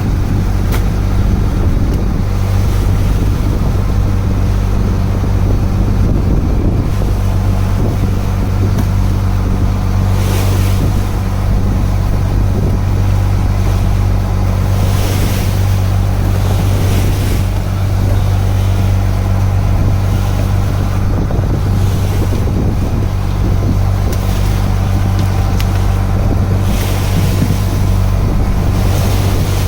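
A fishing boat's engine running with a steady low hum under a constant wash of sea and wind noise, with a few brief louder hissing surges.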